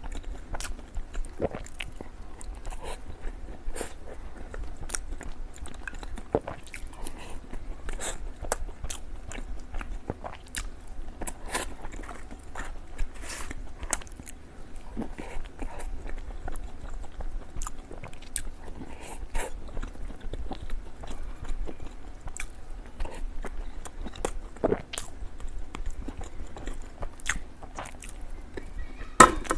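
Close-miked mouth sounds of someone eating desserts: wet chewing with frequent short crunches and smacks at irregular intervals. One louder, sharp crunch or click comes just before the end.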